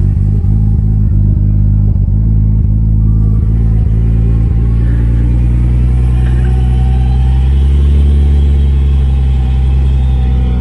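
A car engine running steadily at low revs, its note shifting slightly about seven seconds in.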